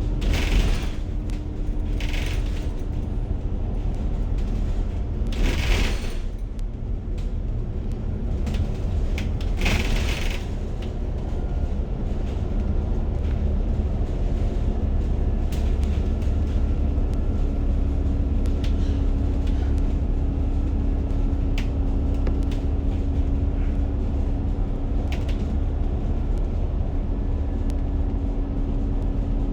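Ride noise inside a moving city bus: a steady low engine and road rumble with a held engine hum. Several short loud hisses come in the first ten seconds, with light rattles and clicks throughout.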